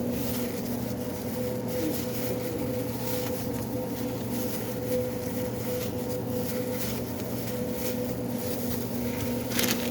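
Steady machine hum with a constant low drone, from sandwich-shop kitchen equipment such as a refrigeration unit or oven fan. A quick run of light clicks and rattles comes near the end.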